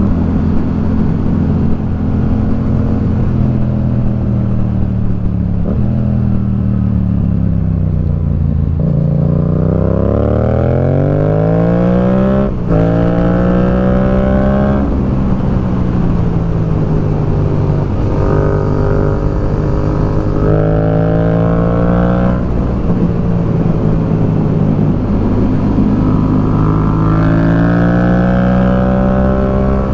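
Motorcycle engine heard on board while riding, the revs climbing and dropping several times as the rider accelerates and shifts gears. The biggest climb, about 9 to 12 seconds in, ends in a sharp click at the shift.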